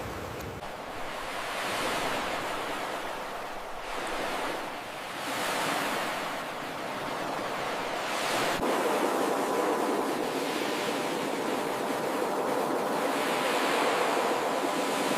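Ocean surf washing onto a beach: a steady rush that swells and ebbs every few seconds, growing fuller and louder in the second half.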